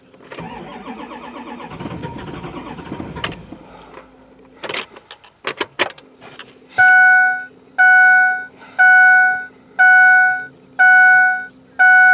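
A vehicle's dashboard warning chime sounding six times, about once a second, loud and evenly paced, most likely the 2005 Ford F-250's key-on chime. Before it come about three seconds of rough rushing noise and a few sharp clicks.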